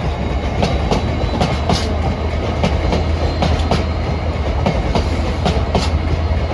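Freight train hauled by a Class 66 diesel locomotive rolling past, its wagon wheels clicking steadily over rail joints, several clicks a second, over a low steady drone.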